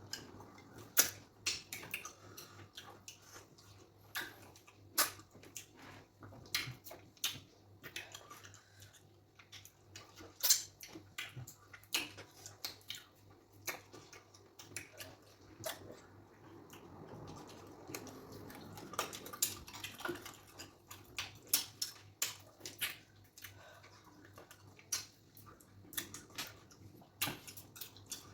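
Close-up mukbang eating sounds of fufu with okra soup: wet chewing and lip smacking, with many sharp, irregular clicks and smacks.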